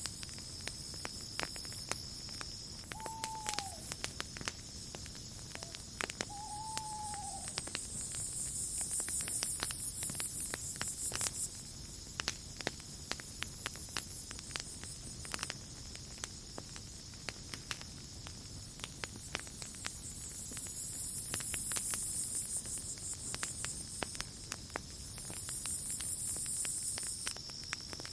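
Campfire crackling with sharp pops throughout, over a steady chorus of crickets whose high chirring swells and fades. About three seconds in, an owl hoots twice, a few seconds apart, each call dropping at the end.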